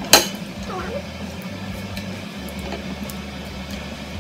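A single sharp clink of kitchenware just after the start, with a short ring after it, over a steady low hum.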